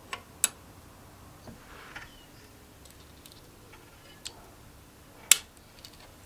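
A few sharp clicks and taps of tools and parts being handled during engine assembly. The two loudest come about half a second in and again near the end, with smaller ticks between.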